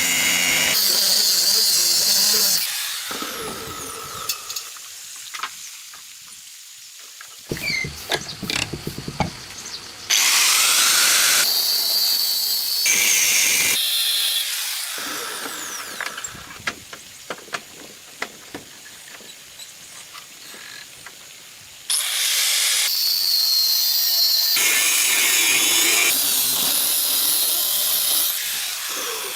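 A power tool runs in three bursts of several seconds each with a high hiss, winding down between them. Scattered clicks and knocks fill the quieter gaps.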